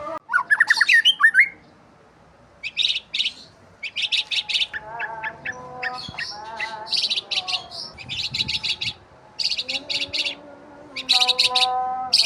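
Several small birds chirping, with repeated quick trills and some lower whistled calls.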